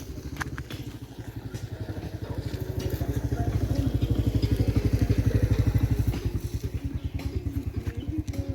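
Tractor's diesel engine labouring with a steady low throb. It builds up in revs and loudness over the first few seconds, then eases off about six seconds in, as the tractor tries to work its way out of the mud.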